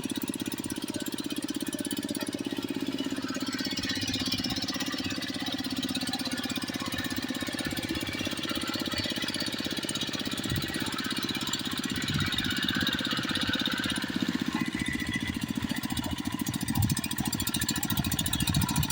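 Hand tractor's single-cylinder diesel engine running steadily under load, with a fast, even chatter, while working through rice field mud. Occasional low knocks come through in the second half, where it gets a little louder.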